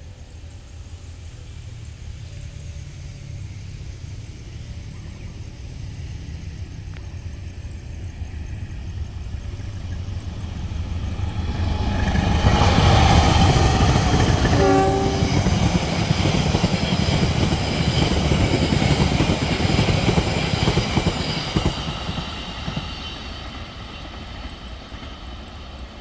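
A diesel-hauled train passing close by: its rumble builds, stays loud for several seconds, then fades, with a short horn blast partway through.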